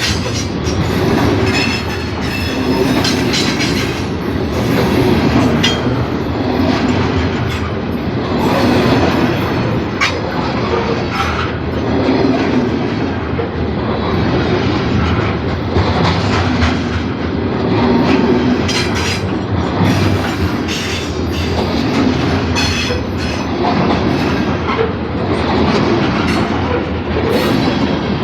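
Freight cars of a Norfolk Southern grain train rolling past, with steady rumbling and repeated clicks from the wheels over rail joints.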